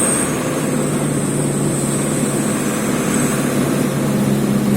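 Truck engine running steadily on the move, a low hum whose note shifts slightly higher near the end.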